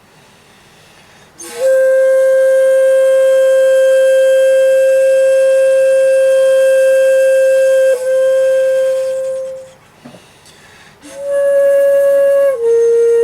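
Shakuhachi (end-blown bamboo flute) playing slow solo music: after a pause for breath, one long held note with a brief break about eight seconds in, fading out; then after another short pause a new note that steps down to a lower held note near the end.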